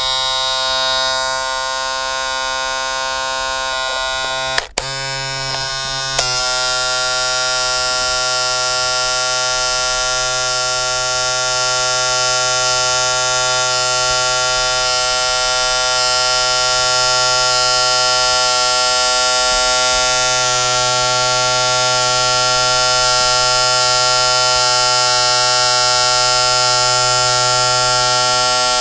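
A loud, steady electric buzz made of many overtones, like a buzzer or alarm, with a brief break about five seconds in before it carries on unchanged.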